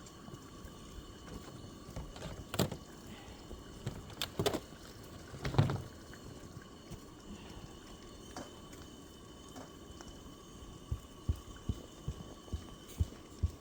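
A few sharp knocks, then, starting near the end, a regular run of dull low thumps at about two to three a second over a faint steady hum.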